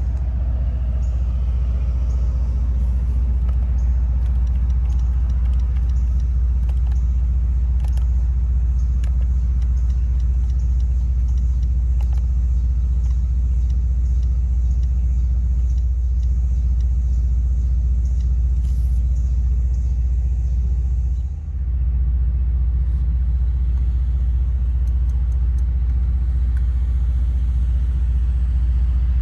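Mercedes-AMG C63's V8 engine and exhaust running steadily with a deep, even low note, dipping briefly about two-thirds of the way through.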